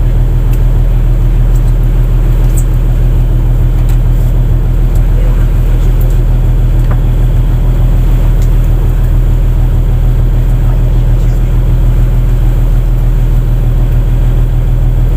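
Fishing boat's engine running steadily at constant speed, a loud, even low hum with no change in pitch.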